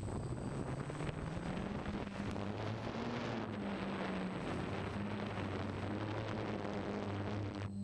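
DJI F550 hexacopter's six brushless motors and propellers running, a steady whirring hum whose pitch rises a little in the first couple of seconds and then holds, with wind rushing over the microphone.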